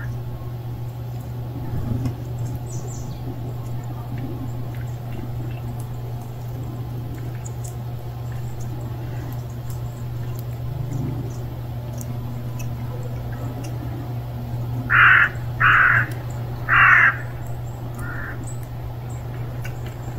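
Three loud harsh bird calls in quick succession about three quarters of the way in, then a fainter fourth, over a steady low hum.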